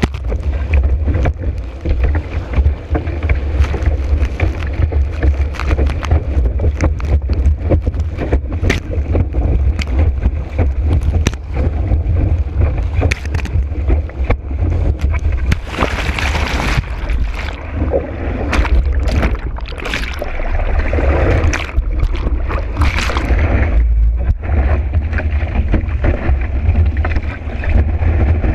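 Kiteboard skimming fast over choppy water in high wind, heard from a board-mounted camera: a heavy wind rumble on the microphone, constant knocks and slaps of the board on the chop, and several louder bursts of spray hiss past the middle.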